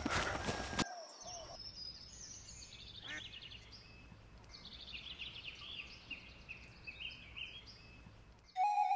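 A loud clatter of knocks cuts off about a second in. Faint outdoor ambience follows, with birds chirping in short high trills. Near the end, music comes in on a steady held tone.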